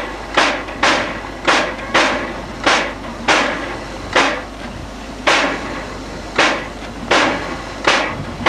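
Narrow-gauge steam locomotive working slowly, giving a string of sharp exhaust beats from its chimney, slightly uneven, roughly one to two a second.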